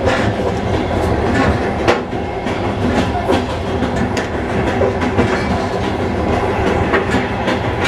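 Passenger train running at speed, heard from inside the carriage: a steady rumble of wheels on the rails with irregular clicks and knocks from the track.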